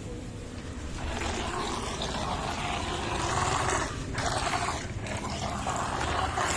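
Remote-control toy boat running through water: a steady rushing noise that comes in about a second in and drops out briefly twice, around four and five seconds in.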